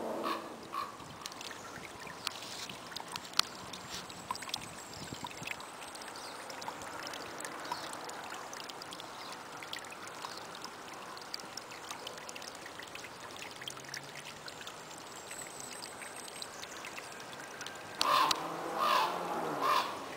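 Rainforest trail ambience: a steady faint hiss like running water, with scattered light crunches of footsteps along the trail. Louder bird calls come in near the end.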